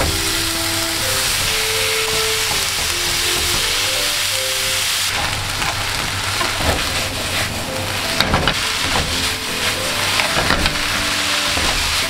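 Thin-sliced pork and onions sizzling in a frying pan as they are stir-fried with chopsticks, with a run of clicks and scrapes against the pan in the middle. Light background music plays underneath.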